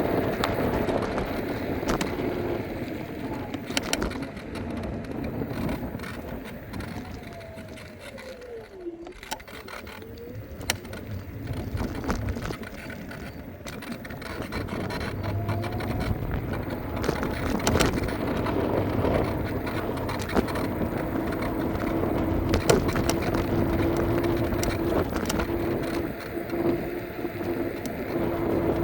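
Electric scooter riding over pavement: rumbling road noise with frequent knocks and rattles from bumps, and the motor's whine, which dips in pitch and rises again about nine seconds in as the scooter slows and picks up speed, then holds a steady pitch near the end.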